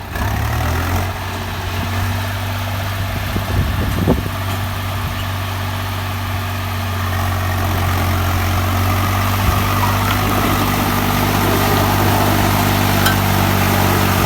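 Tractor diesel engine running steadily, its note shifting up within the first second and growing gradually louder over the second half, with a few knocks a few seconds in.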